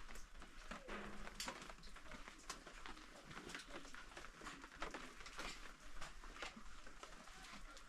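Rain pattering steadily in many small irregular drops, as on a tarp or roof, with a short faint animal call about a second in.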